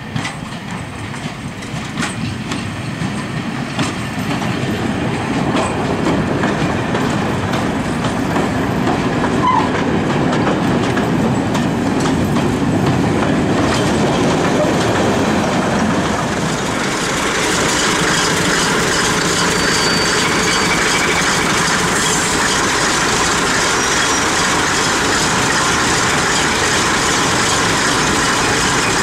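Train running on the track, heard close up from the moving train: wheels rumbling with scattered clicks, building over the first several seconds, then a steady noise of running.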